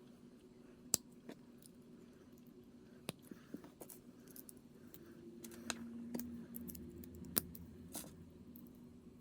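Scattered sharp clicks of small plastic kit parts being handled and snapped together, about six in all, over a faint steady low hum.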